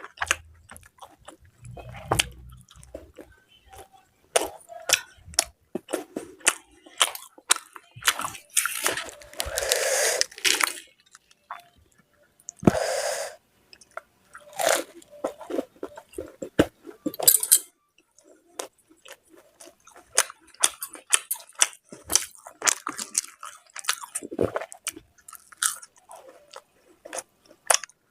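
Close-miked eating sounds of a person chewing and biting mutton curry with luchi: many short, wet clicks and crunches. There are a couple of longer noisy stretches about nine and thirteen seconds in.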